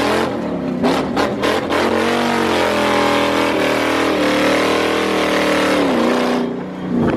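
Lexus LS400's 1UZ V8 engine revving hard under load on a drift run, its pitch rising and falling. It drops briefly about six seconds in and then picks up again.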